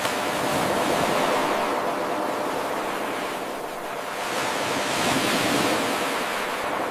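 Ocean surf washing in, swelling twice and easing back between the swells. It is a looped 8-second wave recording, with an abrupt jump in level at the very start where the loop restarts.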